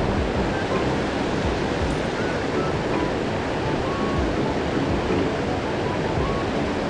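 Steady rush of stream water pouring over a large weir, an even, unbroken roar of falling and churning water.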